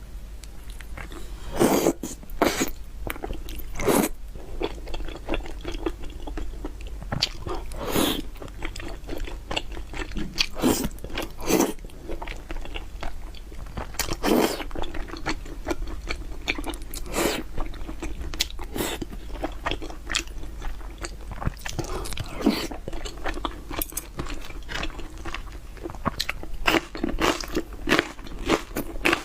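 Close-up eating sounds: a person biting and chewing food, with irregular crisp crunches every second or two between softer chewing.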